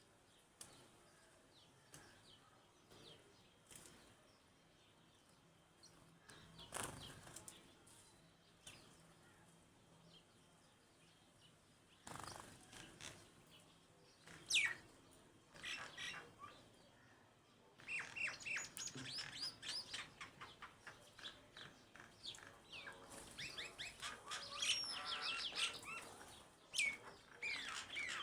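Small pet birds chirping: scattered short high chirps at first, then from about two-thirds of the way in a dense run of quick chirps, with a couple of brief rustling sounds earlier on.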